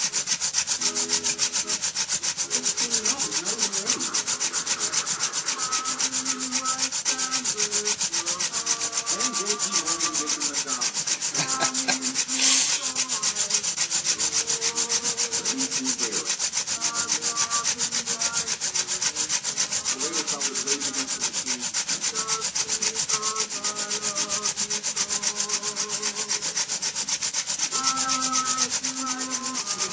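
Hand-drill friction fire: a wooden spindle spun back and forth between the palms, grinding into a bamboo toothbrush hearth with a fast, steady rubbing and squeaks that rise and fall. One sharper scrape comes about twelve seconds in.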